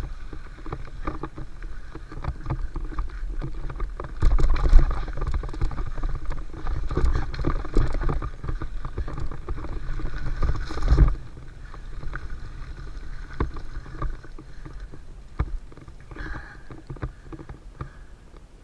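Mountain bike rolling down a dirt flow trail: wind rumbling on the microphone and tyre noise, with frequent short rattles and knocks from the bike over bumps. It gets noticeably quieter a little past halfway, as the bike slows.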